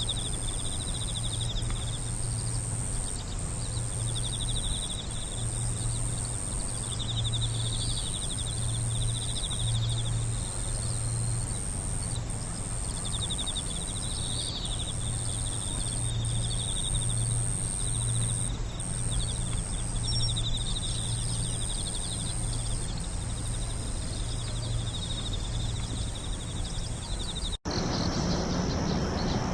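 Night insects singing: repeated rapid trilling bursts, typical of crickets, over a continuous thin high-pitched trill, with a low hum underneath. The sound drops out briefly near the end.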